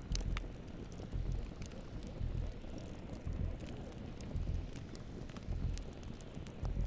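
Campfire crackling, with scattered sharp pops and snaps over a steady hiss. Under it, a low pulse comes about once a second.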